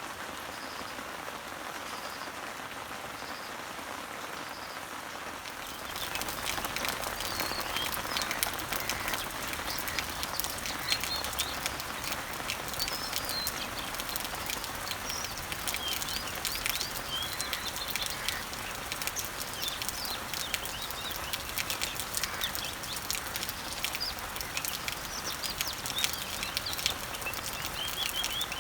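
Rain falling on garden leaves and trees, with birds chirping. For the first six seconds the rain is softer and one bird repeats a short high note; then the sound turns abruptly louder, with dense dripping and many birds chirping.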